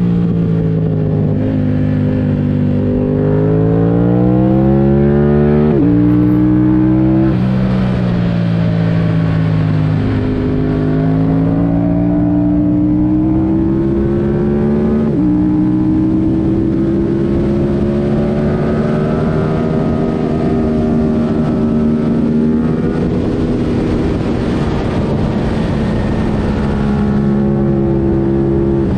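2022 Yamaha R7's 689 cc parallel-twin engine, running with its airbox removed through a MIVV Delta Race exhaust, pulling hard under load: the pitch climbs steadily, then steps suddenly several times as gears change.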